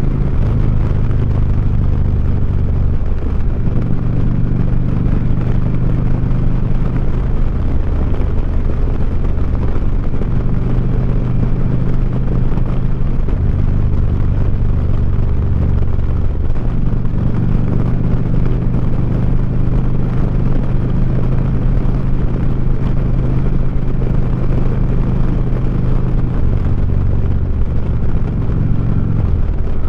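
2009 Harley-Davidson Street Glide's V-twin running through 4.5-inch Sharkroad exhaust while riding, heard from the saddle. The engine note shifts several times as the throttle is opened and rolled off, over steady wind and road noise.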